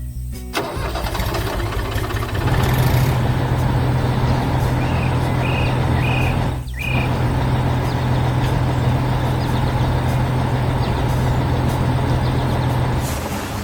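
Heavy diesel machinery engine running with a deep, steady hum that swells about two and a half seconds in and drops out for a moment near the middle. A few short high chirps come over it a little before the dropout.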